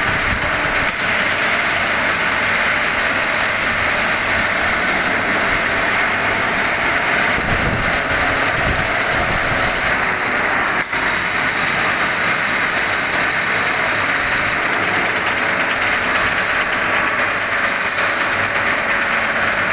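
Workshop machinery running with a loud, steady mechanical noise, broken by a brief dip about eleven seconds in.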